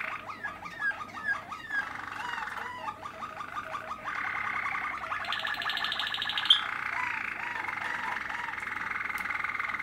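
Young Malinois (Waterslager) canary singing: a run of repeated short notes, then from about four seconds a continuous rolling trill, with a brief faster, higher trill in the middle.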